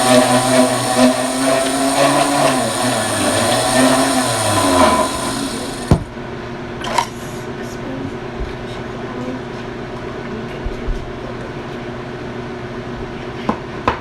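Blizzard spindle mixer running loudly and steadily, its pitch dipping for a moment as it blends the ice cream. It stops with a click about six seconds in, leaving a low steady machine hum and a few light knocks.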